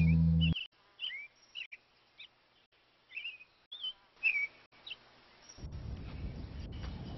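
Background music with plucked strings cuts off about half a second in. It is followed by scattered bird chirps: short, quick whistles that swoop up and down, a dozen or so. A low background noise comes in near the end.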